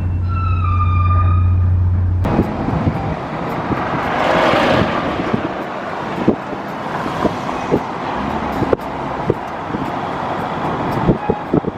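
A police car siren wailing, its tone sliding down, over a steady low hum; it cuts off suddenly about two seconds in. Then street traffic noise follows, with a vehicle passing and scattered knocks.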